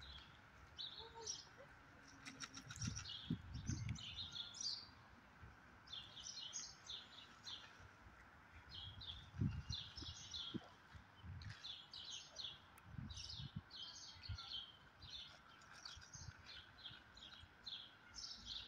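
Small birds chirping over and over in short, high calls, with a few soft low thuds in between.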